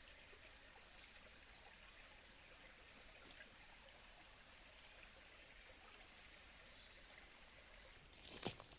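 Near silence: a faint, steady outdoor hiss, with a short cluster of sharp clicks near the end.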